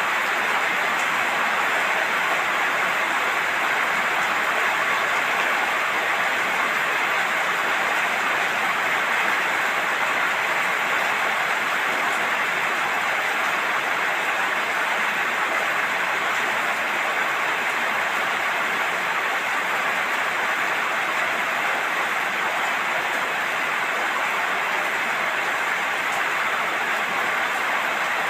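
Steady heavy rain falling, an even hiss that holds at one level throughout.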